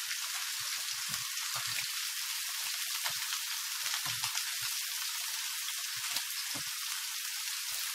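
Chicken fillets frying in olive oil in a frying pan: a steady sizzle with scattered small pops.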